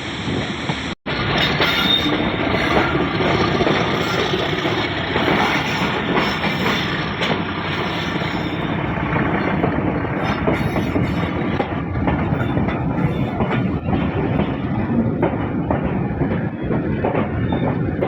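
Passenger train running on the rails, heard from aboard: a steady rumble with the wheels clicking over the rail joints. There is a brief dropout about a second in.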